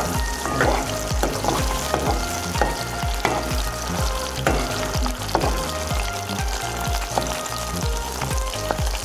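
Egg and chopped peppers sizzling in hot oil in a caldero, stirred with a metal spoon.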